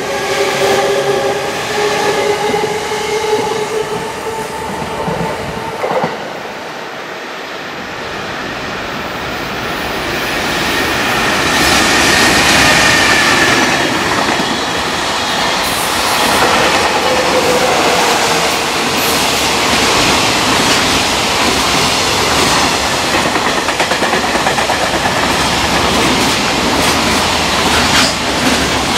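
An E217-series Yokosuka Line electric commuter train moving past with a steady electric whine that fades out about six seconds in. Then a long container freight train passes close by, its wagons rumbling and wheels clacking over the rail joints, growing loud by about twelve seconds in and staying loud.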